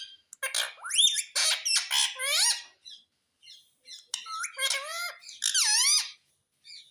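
Indian ringneck parakeet giving high-pitched squawks and chattering calls in two bouts, the second starting about four seconds in.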